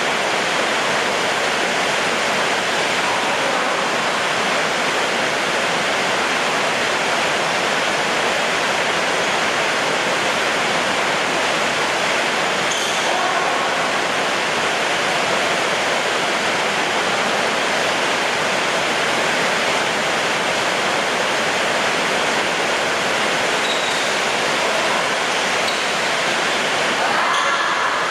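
Heavy downpour of rain, a steady loud hiss.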